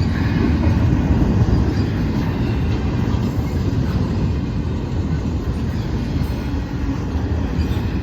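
Steady rumble of a passing train, easing slightly in the second half.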